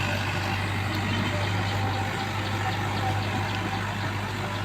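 Mahindra tractor's diesel engine running steadily, an even low drone.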